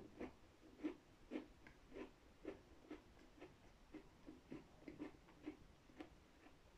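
Faint, crunchy chewing of a cream-filled cookie, about two chews a second.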